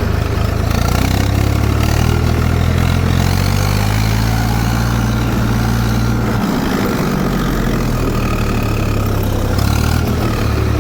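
Zetor 4911 tractor's diesel engine running under varying throttle. Its note rises in the first few seconds, drops back about six and a half seconds in, and picks up again near the end.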